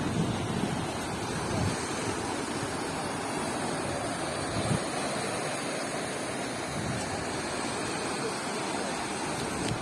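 Steady rush of flowing floodwater, with low gusts of wind buffeting the microphone.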